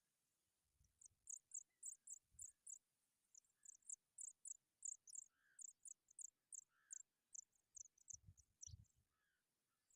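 Small birds giving a fast run of thin, very high-pitched chirps, several a second, with a few lower calls among them and some soft low thumps about a second in and near the end.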